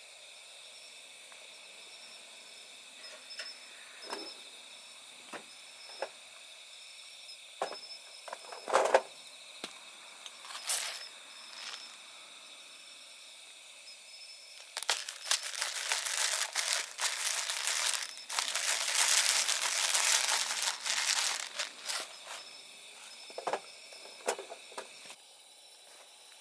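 Insects chirping steadily at night, with scattered sharp clicks. Midway comes about seven seconds of dense crackling, the loudest sound here.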